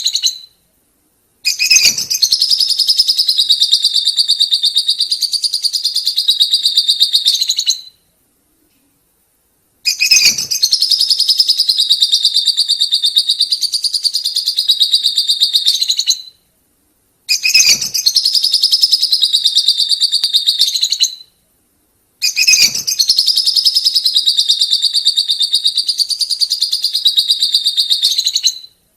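Colony of lovebirds in 'ngekek' song: a rapid, continuous high-pitched chattering trill. It comes in four bursts of about four to seven seconds each, separated by short gaps of silence.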